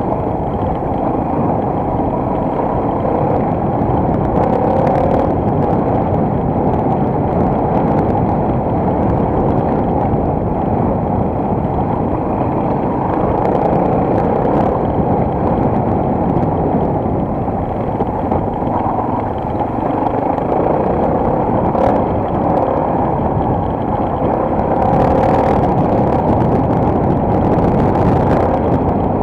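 Single-cylinder four-stroke enduro motorcycle engine running while riding, heard together with wind and road noise at a steady level with only gentle rises and falls.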